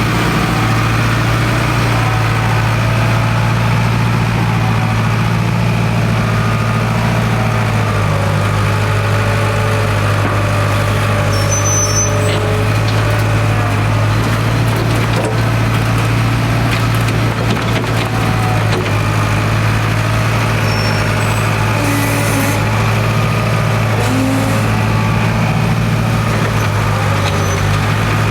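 International Harvester 270A backhoe's diesel engine running at a steady speed, a loud constant low drone.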